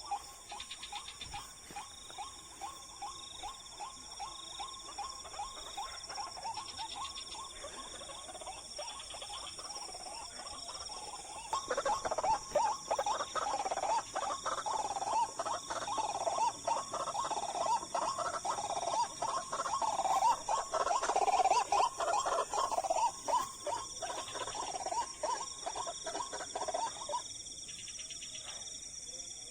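A rapid run of croaking animal calls, fainter at first, then louder from about 12 s until they stop near 27 s, over a steady high-pitched insect chorus.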